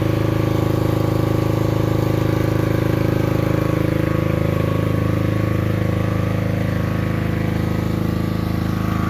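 Portable generator's engine running steadily under load, powering inflatable yard decorations.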